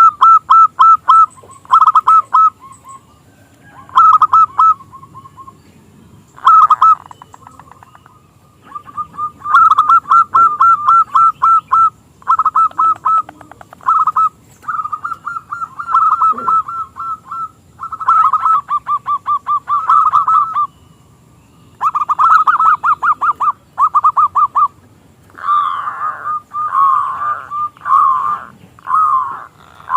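Zebra dove (perkutut) cooing in repeated trains of rapid staccato notes, with short pauses between the phrases. Near the end the notes change to a series of falling calls.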